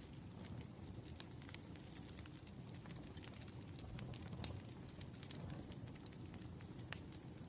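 Wood fire burning with a steady low rumble and scattered sharp crackles and pops, the loudest pop near the end.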